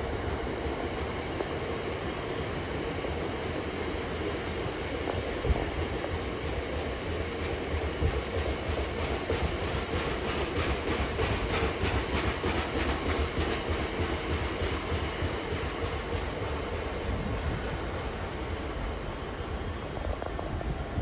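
Loaded freight wagons rolling slowly past, a steady rumble of wheels on rails, with a run of quick clicking from the wheels in the middle.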